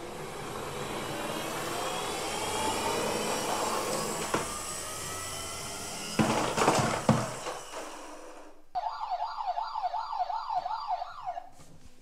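Toy siren sounds: a slowly rising wail over a rushing noise, with a few loud knocks around the middle, then a rapid electronic yelp of about four rises a second that lasts a couple of seconds and cuts off suddenly.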